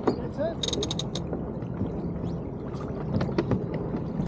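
Sailboat winch ratcheting: a quick run of sharp metallic clicks about half a second in, with scattered clicks after it over a steady rush of wind and water.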